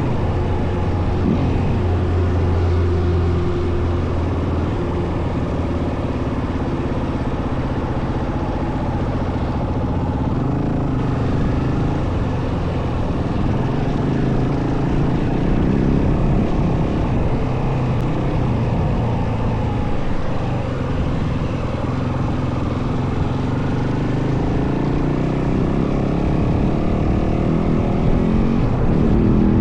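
Yamaha WR450F dirt bike's single-cylinder four-stroke engine running while ridden, its pitch rising and falling with the throttle.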